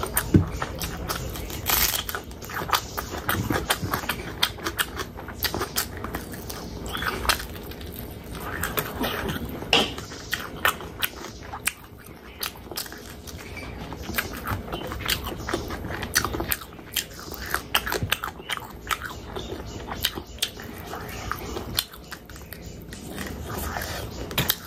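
A person eating close to the microphone, chewing a mouthful of rice and spicy pork pickle: wet chewing and lip smacking, with many sharp, irregular clicks and the odd crunchy bite.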